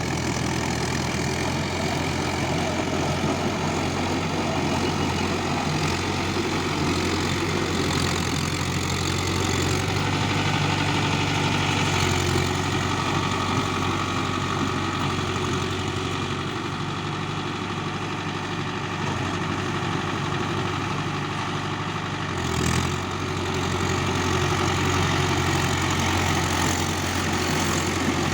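Mahindra tractor's diesel engine running steadily at an even speed, with one brief louder moment about three-quarters of the way through.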